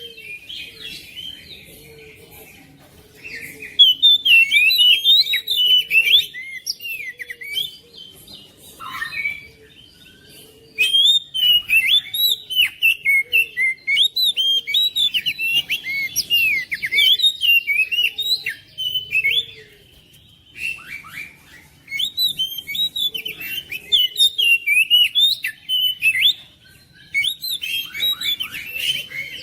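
Oriental magpie-robin (kacer) singing: dense bursts of rapid, varied chirps and whistled notes, broken by short pauses.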